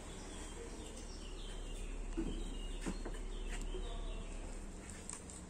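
Faint birds chirping over a steady low outdoor background hum, with a few soft clicks.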